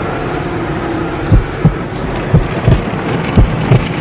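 Automatic car wash machinery and spray running steadily, heard from inside the car, with a series of short, deep thumps, mostly in pairs, from about a second in.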